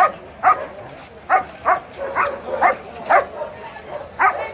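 A dog barking over and over, about two barks a second, with a steady background hubbub underneath.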